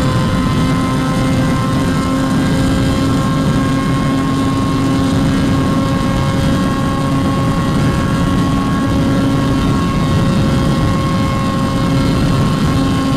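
Motorcycle engine running at a steady, unchanging pitch under a loud low rush of wind on the microphone, consistent with riding along at constant speed.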